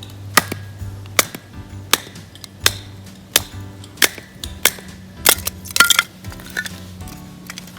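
Repeated sharp strikes, about one every three-quarters of a second, with a quick cluster of them about five to six seconds in, over background music with held notes.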